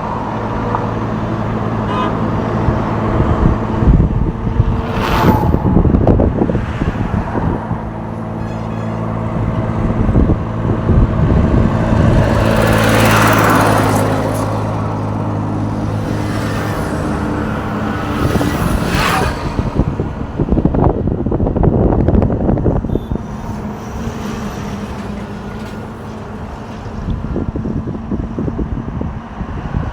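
Road traffic with heavy trucks and cars going by close at hand, several passing one after another with a swelling whoosh. A big engine drones steadily underneath for most of the time and fades out about two-thirds of the way through.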